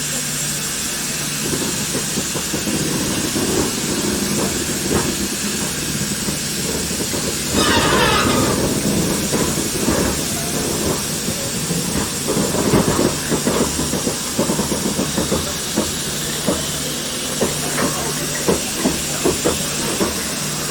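Steam locomotive with steam hissing steadily. There is a brief louder burst about eight seconds in, then a run of short knocks through the second half.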